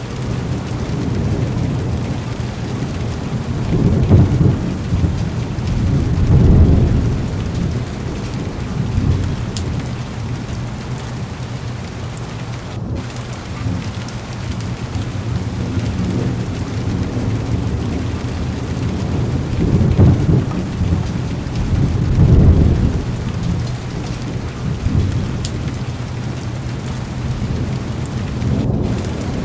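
Heavy rain pattering steadily on a car's window, with low rolls of thunder swelling and fading four times, about four, six, twenty and twenty-two seconds in.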